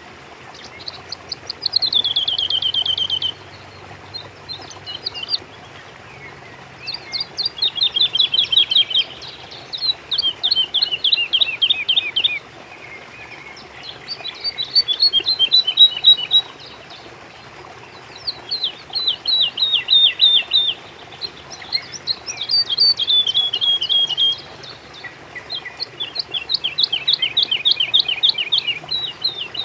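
A songbird singing a run of short, rapid trills, each a quick series of descending notes, repeated about every two seconds. Beneath it is a faint, steady hiss.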